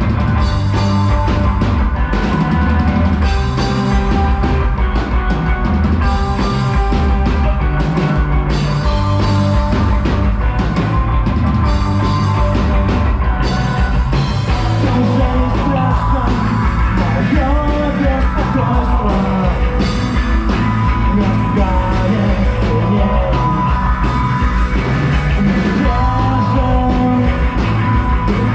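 A rock band playing live with a steady drum-kit beat. About halfway through, a pitched line slides down and back up.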